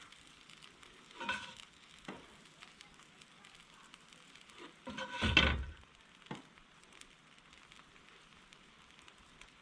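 Food sizzling steadily in a frying pan, with a couple of louder scrapes or knocks from the pan and utensil, the loudest about five seconds in.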